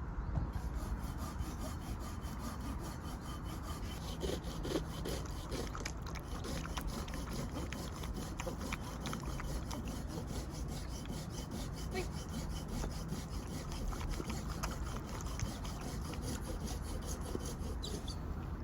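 Wood being worked by hand at a campsite: a long run of small, closely spaced scraping strokes on wood, as when cutting or shaving firewood.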